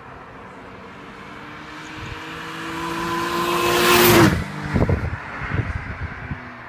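Engine-swapped Isuzu Piazza accelerating, its engine note climbing steadily and growing louder for about four seconds, then dropping away sharply, followed by a few seconds of uneven low exhaust thumps.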